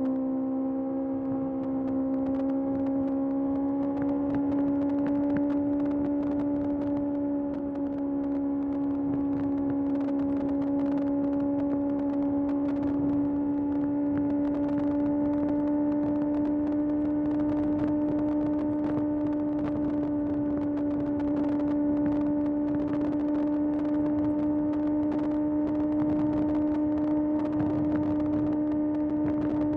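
Kawasaki ZX-6R's 636 cc inline-four engine holding a steady high engine speed while cruising, heard from the tank. Its pitch creeps up slightly a few seconds in, then stays nearly level.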